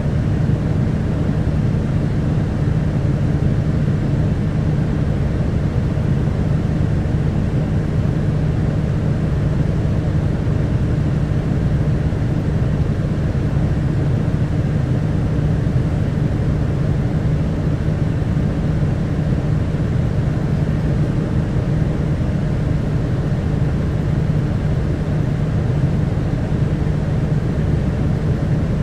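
Inside a city bus, an Isuzu Erga Mio's diesel engine runs steadily with road noise as the bus travels along.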